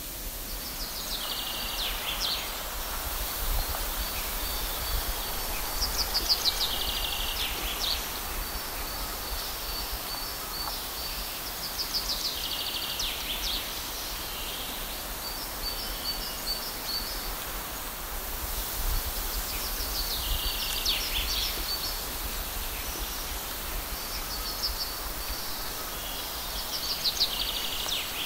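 Birdsong: a songbird repeats a short, fast, descending trill about every six to seven seconds. A faint, continuous high chirping and a steady hiss lie underneath.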